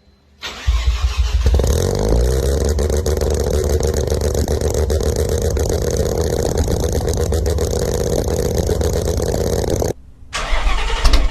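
A car engine cold-starting: it catches about half a second in, flares up in revs and settles into a steady, evenly pulsing fast idle. Near the end it cuts off suddenly and another engine starts up.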